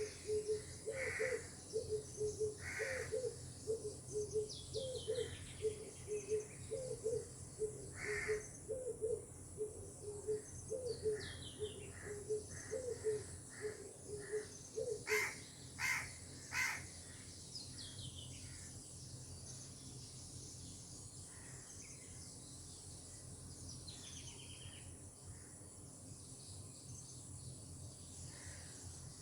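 A chorus of wild birds calling: a low note repeated over and over through the first half, scattered chirps and falling whistles, and a few harsh caws near the middle. A steady high insect hiss runs underneath.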